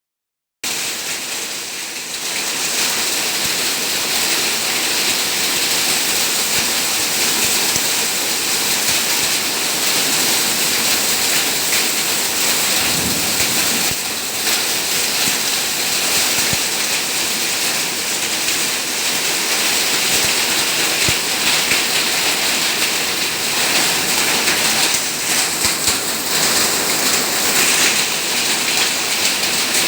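Steady, heavy rain falling, an even hiss with a few faint knocks from drops scattered through it.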